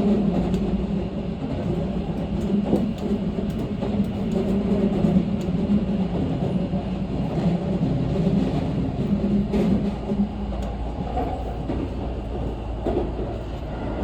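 Train running, heard from inside the carriage: a steady rumble with a low hum and a few faint clicks.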